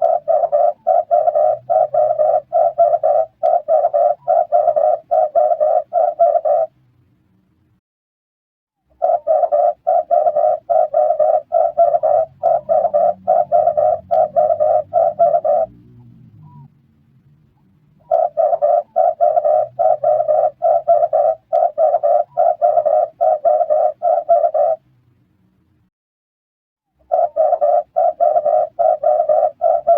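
Red turtle dove cooing in long bouts of rapid, evenly repeated coos, about three a second, each bout lasting roughly seven seconds with a pause of about two seconds before the next.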